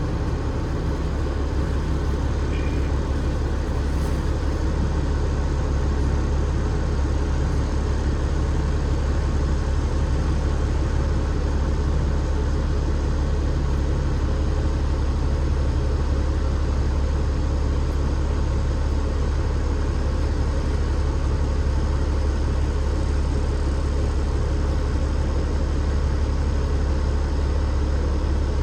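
Cummins ISL8.9 diesel engine of an Alexander Dennis Enviro500 MMC double-decker bus, running steadily with a deep, even hum.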